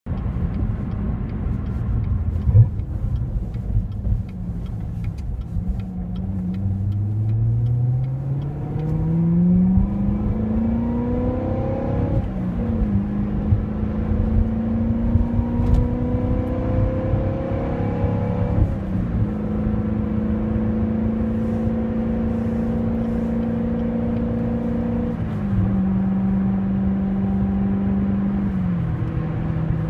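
Chevrolet C7 Corvette's 6.2-litre V8 heard from inside the cabin through a Katech carbon-fibre exhaust. The engine note rises under acceleration and drops at each of three upshifts, then holds steady at highway cruise. Tyre noise runs underneath and is about as loud as the exhaust.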